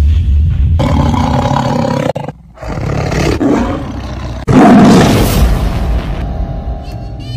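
Big-cat roar sound effects, loud and noisy, in several edited segments that start and stop abruptly; the loudest roar comes a little past halfway.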